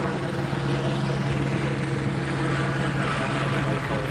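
Police helicopter hovering overhead: a steady drone of rotor and turbine engine holding one constant pitch.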